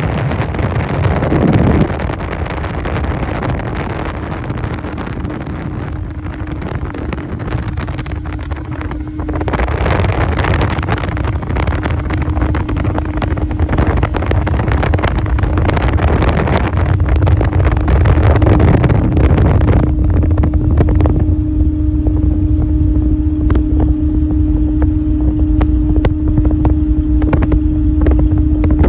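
A motorboat running on the water, its motor humming steadily under heavy wind buffeting on the microphone.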